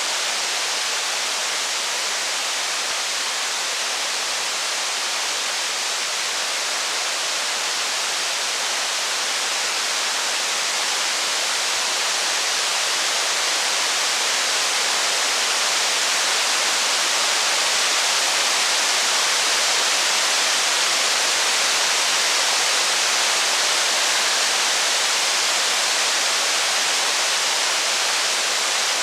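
Steady heavy rain, an even hiss.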